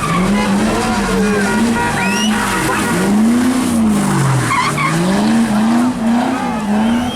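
A car engine revving up and down over and over as it spins donuts, with the pitch rising and falling about once a second and dropping low once around four seconds in. Under the engine, tyres spin on the wet pavement.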